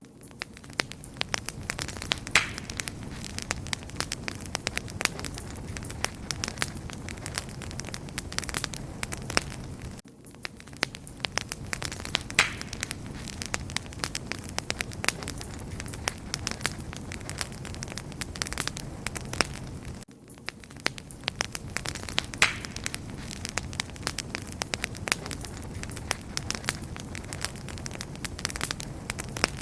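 Wood fire crackling and popping steadily, with dense small snaps and an occasional louder pop over a soft rushing bed. The same ten-second stretch repeats, with a brief drop in level at each join.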